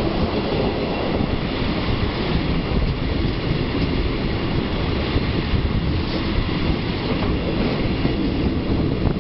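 České dráhy class 814/914 Regionova diesel railcar running at speed, heard from an open side window: a steady rumble of wheels on the rails.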